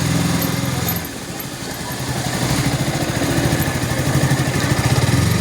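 Motorcycle engine running, its note dropping about a second in and then building slowly back up.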